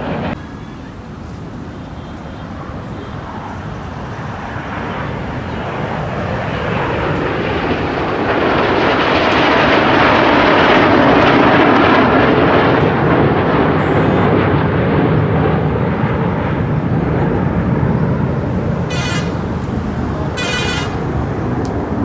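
Jet aircraft flying past at an air show: a broad roar that builds to a peak around the middle and then slowly fades. Two short high-pitched toots sound near the end.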